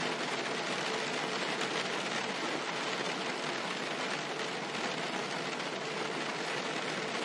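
Steady rain on a car's roof and windshield, heard from inside the car: an even, unbroken hiss.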